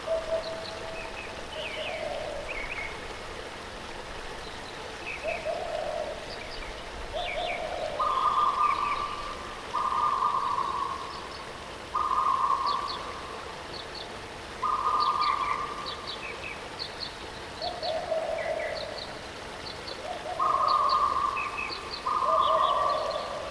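Birds calling over the steady rush of a waterfall: long, even-pitched calls about a second each, repeated every couple of seconds and switching between a higher and a lower note, with quick high chirps from other birds between them.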